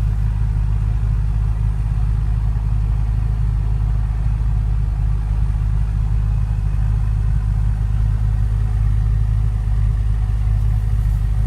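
A steady low drone with a constant hum, even and unchanging throughout.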